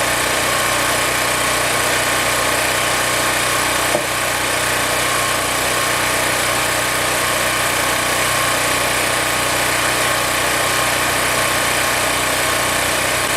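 A small engine running steadily at an even speed, with a single light tick about four seconds in.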